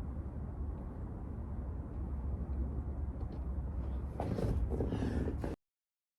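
Steady low outdoor rumble, with a louder, noisier stretch about four seconds in; the sound then cuts off abruptly.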